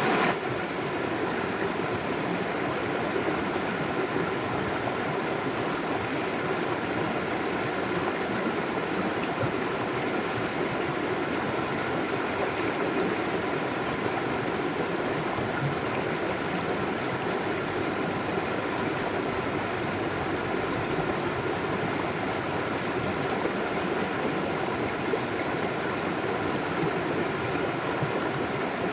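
River water flowing over rocks, a steady rushing with no break.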